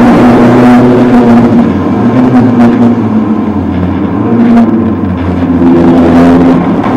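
Citroën AX Sport rally car's engine heard from inside the stripped cabin, running at high revs. The revs and level drop in the middle as the car slows for a bend, then pick up again near the end.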